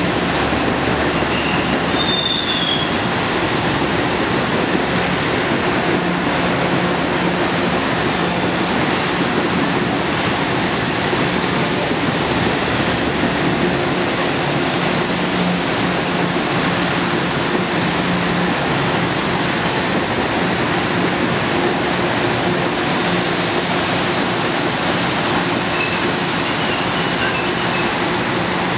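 Long Island Rail Road commuter train rolling past the platform: steady rumble of wheels on rail, with a few brief, faint high wheel squeals near the start and near the end.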